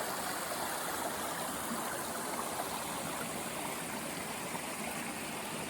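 River water running, a steady rushing and burbling.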